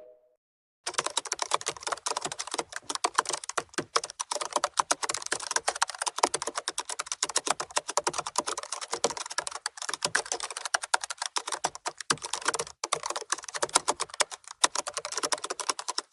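Fast, irregular clicking of keys on a computer keyboard, like rapid typing, starting about a second in, with a brief break about three-quarters of the way through.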